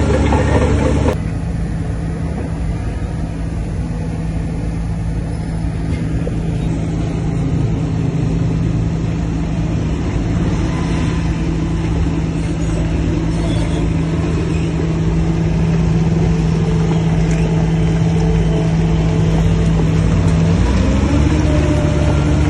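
Heavy diesel engine of earthmoving machinery running steadily under load, its sound changing abruptly about a second in and its note rising near the end.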